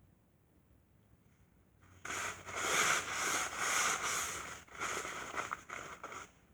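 A dry rubbing, scuffing sound in quick repeated strokes, about two to three a second, starting about two seconds in and stopping abruptly some four seconds later.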